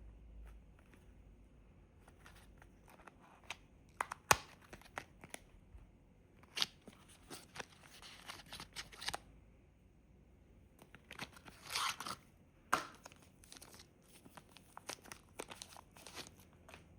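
Packaging being handled and torn open, with crinkling and rustling around the middle and near two-thirds of the way in, and scattered sharp clicks and taps, one louder near the start.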